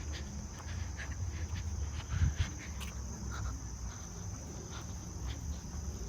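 Insects chirring steadily at a high pitch, with scattered light ticks of footsteps and a low rumble underneath; one thump about two seconds in.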